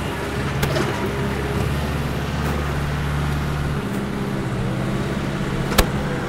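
McCormick X10.55M tractor's diesel engine running steadily under load while pulling a disc harrow; its note shifts slightly about four seconds in. Two sharp clanks cut through the engine sound, a lighter one near the start and a louder one near the end.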